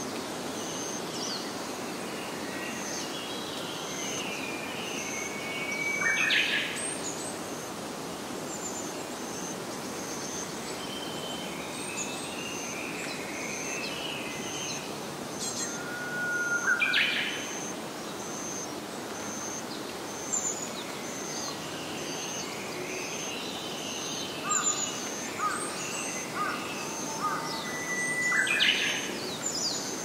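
Birds singing: one loud song three times, about ten seconds apart, each a held whistle ending in a quick rising flourish, with softer twittering between. Under it, a short high note pulses steadily about one and a half times a second over a constant hiss.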